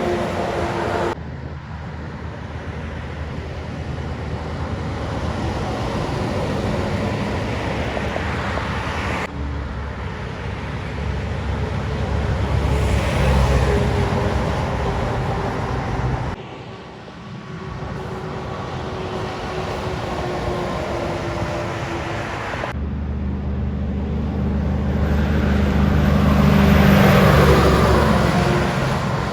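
Heavy trucks driving past on a highway, one after another: diesel engines and tyre noise swell as each passes. The sound changes abruptly a few times where short clips are cut together.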